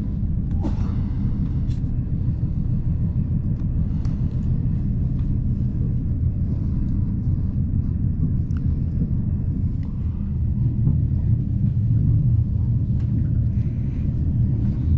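Steady low rumble of an ICE 1 high-speed train running on the rails, heard inside the passenger coach, with a few faint clicks scattered through it. It grows slightly louder in the last few seconds.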